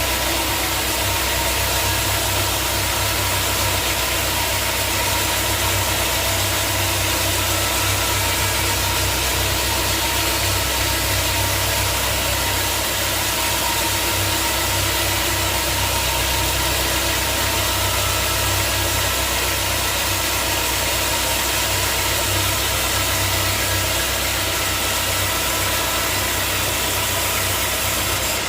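Portable band sawmill running: a steady engine hum under a constant hiss, with no change in pitch or level.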